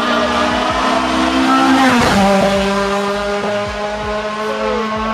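Cosworth BDA twin-cam 16-valve four-cylinder race engine running loud at high revs. About two seconds in the note drops briefly, then holds steady again.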